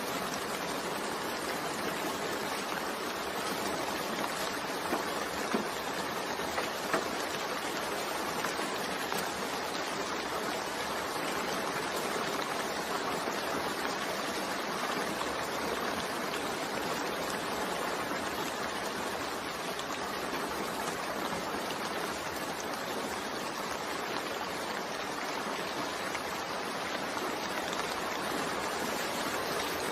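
Steady gentle rain falling, an even hiss of many drops, with a few louder single drops about five to seven seconds in.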